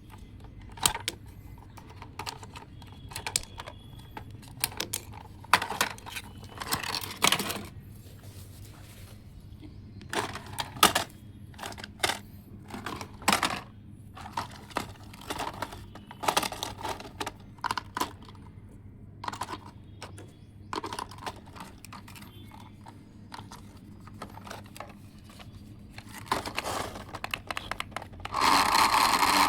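Irregular clicks, taps and clatter of small hard parts being handled. About a second before the end, a steady whir starts, typical of a toy RC car's small electric motor running.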